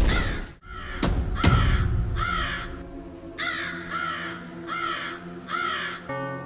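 A crow cawing again and again, harsh calls about every half second to second, with a short pause about three seconds in, laid over background music as a sound effect.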